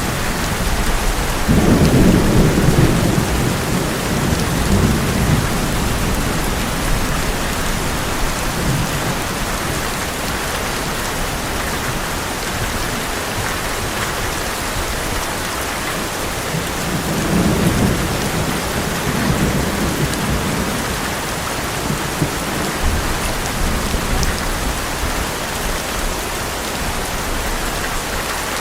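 Heavy rain drumming steadily on an old metal roof, with thunder rumbling, loudest about a second and a half in and again past the middle.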